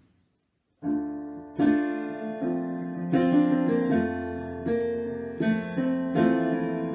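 After a brief silence, a piano plays the instrumental introduction to a worship song, striking sustained chords about once a second.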